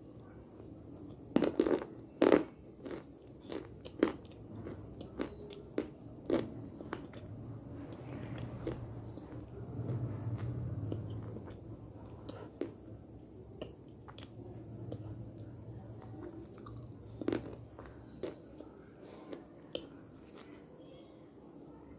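A person biting and chewing hard pieces of slate: sharp, brittle cracks as pieces snap off, the loudest about a second and a half and two seconds in, then scattered smaller crunches over steady chewing.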